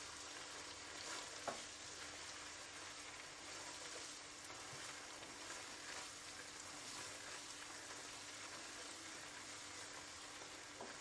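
Chicken strips frying in butter in a non-stick wok: a steady sizzle, with a silicone spatula stirring them around the pan. One sharp click about a second and a half in.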